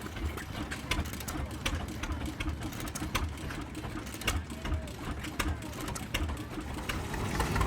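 Machinery running with a fast, uneven low pulsing and scattered sharp clicks.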